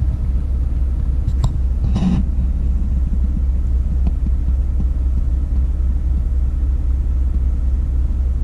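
Steady low rumble of a Kenworth T680 semi truck's diesel engine running, with a faint click about a second and a half in and a brief rustle about two seconds in.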